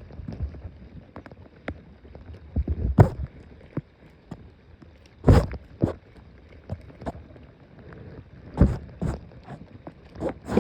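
Knocks and thumps on a small fishing boat, one about three seconds in, a pair about five to six seconds in and another pair near the end, over a low steady rumble.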